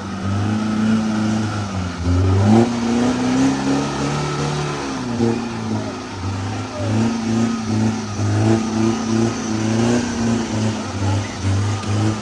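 Off-road 4x4 engine revving hard in mud, its pitch climbing about two seconds in, then rising and dropping in short repeated pulses near the end as the throttle is worked.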